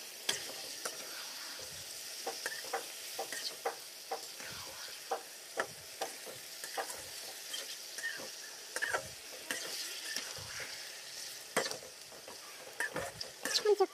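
Meat and sliced onion sizzling in oil in a steel wok while a slotted metal spatula stirs them, with repeated irregular scrapes and knocks of metal against the pan over a steady frying hiss.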